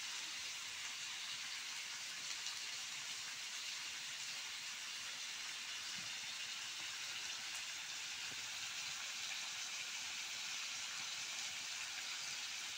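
Chicken pieces and green peas frying in a black wok, giving a steady sizzling hiss.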